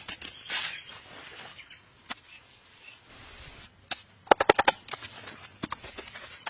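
Sharp wooden knocks and cracks from branches being handled and worked. There is a quick run of about six knocks about four seconds in, which is the loudest moment, and a short rustle near the start.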